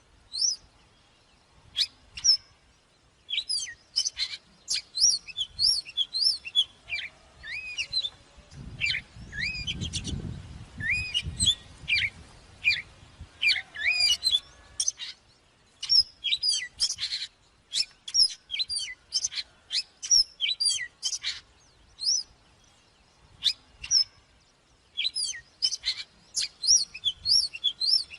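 Oriental magpie-robin singing: phrases of quick, varied chirps and whistled notes with short pauses between them. A low rumble underlies the song for a few seconds about a third of the way in.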